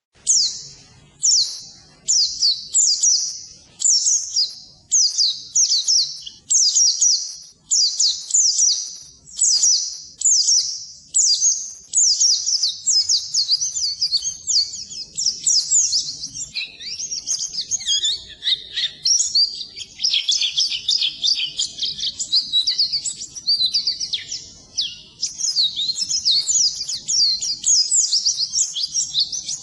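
White-eye (pleci) singing: quick, high twittering phrases about once a second, running into a dense, continuous chattering song about halfway through.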